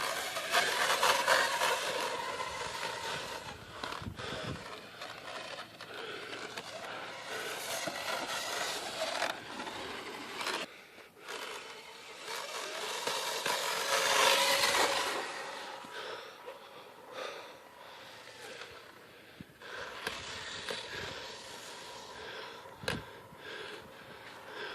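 Electric RC truck running on sand, its motor and geared drivetrain whining with tyre and sand noise, swelling loudest about a second in and again about halfway through, then quieter as it drives farther off.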